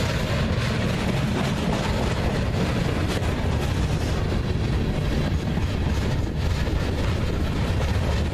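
Train rolling past, a steady low rumble with an even rushing noise over it.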